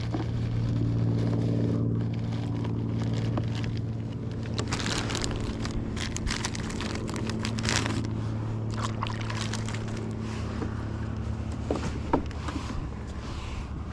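A steady engine drone, with scattered light clicks and scrapes over it and a sharper click about twelve seconds in.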